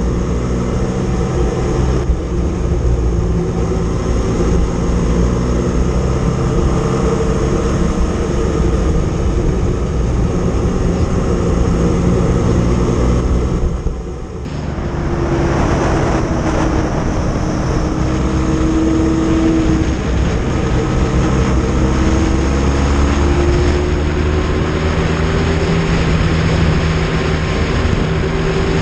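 Motorcycle engine running steadily on the move. About halfway through it eases off briefly, then picks up again with a slowly rising pitch.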